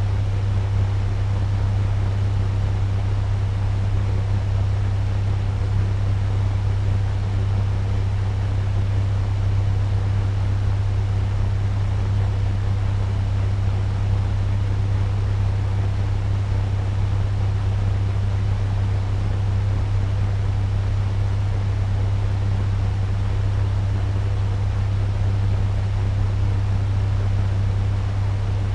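Turbo fan running steadily at medium speed: a constant whoosh of moving air over a strong low hum from the motor.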